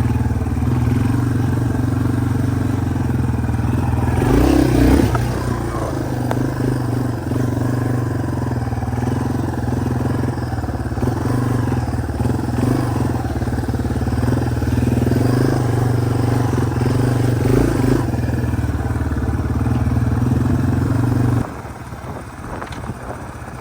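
Yamaha TW200's single-cylinder four-stroke engine running steadily on the ride, with a brief louder surge about four seconds in. Near the end the engine sound suddenly drops away to a much quieter level.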